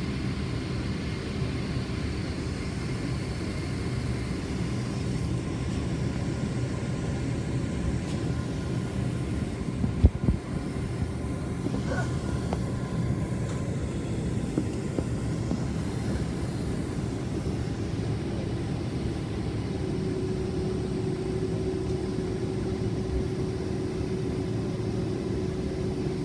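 Steady cabin hum inside a Boeing 767-400ER: a low rumble with a faint steady whine over it. A single sharp knock comes about ten seconds in.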